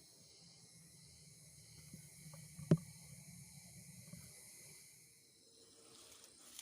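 Forest ambience: a steady high-pitched drone of insects over a low rumble, with one sharp click about three seconds in.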